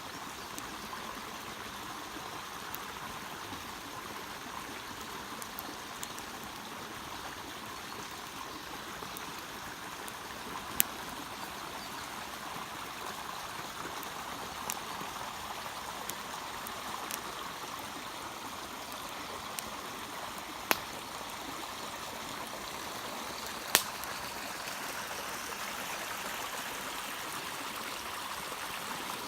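Wood campfire burning: a steady rushing hiss with scattered sharp pops of crackling wood, three of them loud.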